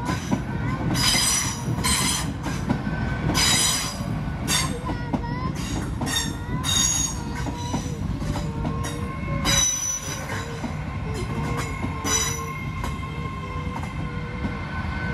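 GWR passenger train creeping through a level crossing, its wheels squealing against the rails again and again over a low rumble. The crossing's warning alarm keeps up faint steady tones underneath.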